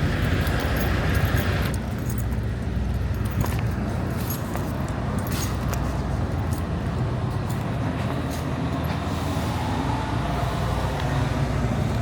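Steady low rumble of an idling diesel truck engine, with scattered faint clicks and rattles.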